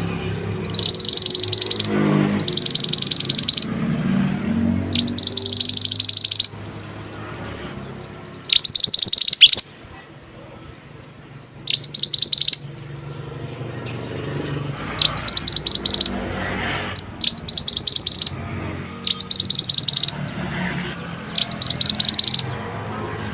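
Mantenan songbird singing: nine loud, fast, high-pitched trilled phrases, each about a second long, repeated with short pauses between them.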